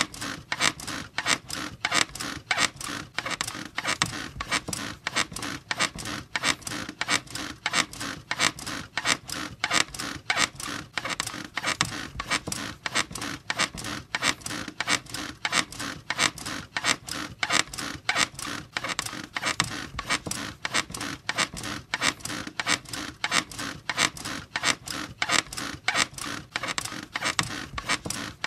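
Bed springs squeaking in a steady rhythm, about two to three squeaks a second, as the bed is rocked over and over.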